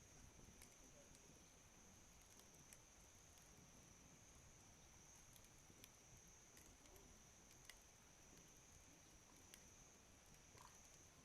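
Faint wood campfire crackling, with a handful of small sharp pops scattered through, over a steady high-pitched tone.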